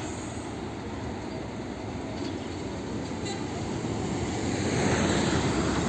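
Vehicle noise: a steady rumble and hiss that grows louder toward the end.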